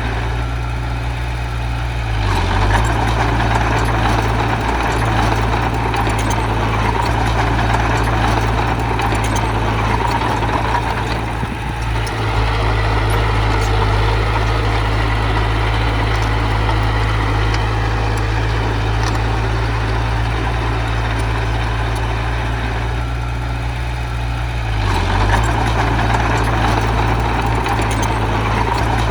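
Diesel engine of heavy earthmoving machinery running steadily and loud. It works harder about two seconds in, eases briefly near the middle, and picks up again near the end.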